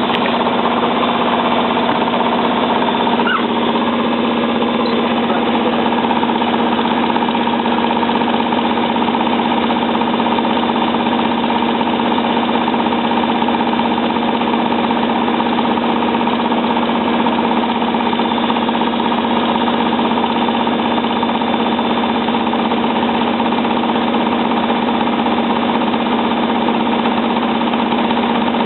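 Hotpoint 9534A washing machine spinning at a steady speed, its motor giving a steady whine over the drone of the drum.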